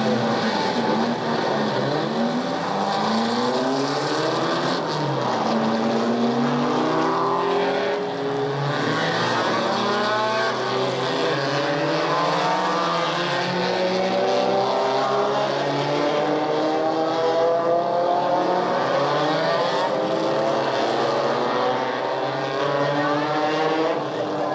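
Recorded sound effect of vehicle engines played back from a stereo sound-effects cassette on a 1976 Sony TC-520CS: several overlapping engine notes keep rising and falling in pitch, over steady tape hiss and with little bass.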